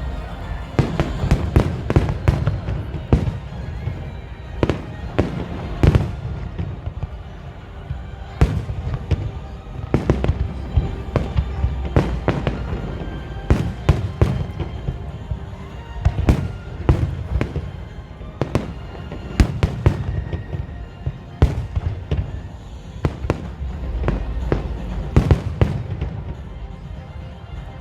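Aerial fireworks bursting in a continuous barrage: dozens of sharp bangs at irregular intervals over a deep rumble. Music plays faintly underneath.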